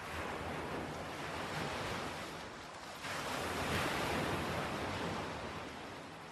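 Ocean surf, waves washing in, with one larger surge that swells about three seconds in and then eases off.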